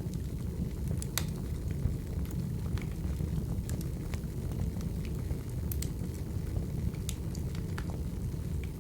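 Wood fire crackling: a steady low rumble of burning logs with irregular sharp pops and snaps scattered through it.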